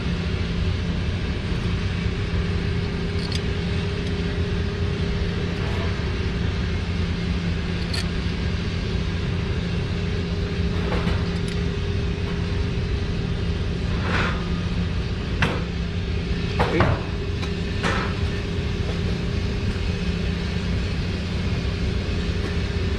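A steady low machine hum with a constant pitch runs throughout. Over it come a few short clicks and knocks of hand tools and parts, most of them in the second half.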